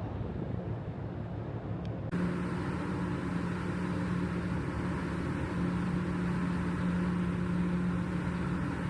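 Steady drone of a large ferry's engines and onboard machinery with a constant low hum. About two seconds in it abruptly gets louder and hissier.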